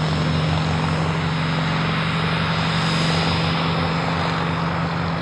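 Propeller aircraft engine running steadily nearby, a low even drone with a fast pulsing beat.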